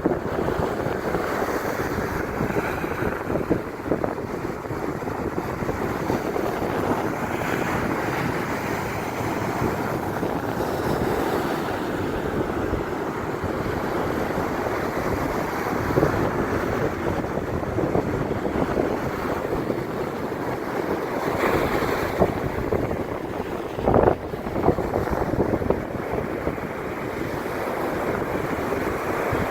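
Sea waves breaking and washing ashore in a steady rush of surf, with wind buffeting the microphone and a few brief louder gusts or crashes in the second half.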